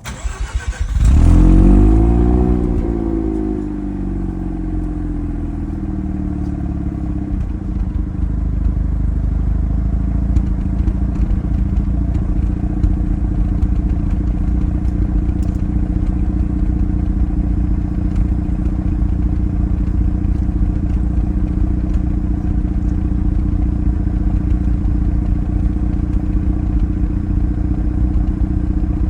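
Mazda RX-7 FD3S's twin-rotor 13B-REW rotary engine starting through its stock exhaust. It catches about a second in, its revs flare up and fall back over the next few seconds, and it then settles into a steady idle.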